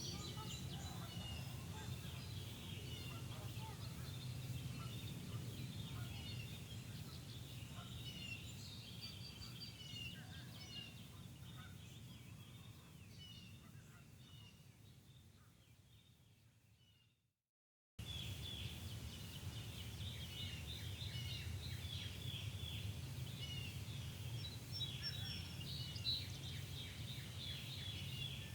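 Birds singing and calling at dawn, many short chirps and trills overlapping, over a steady low background rumble. About two-thirds of the way through, the sound fades out to a second of silence, then cuts straight back in.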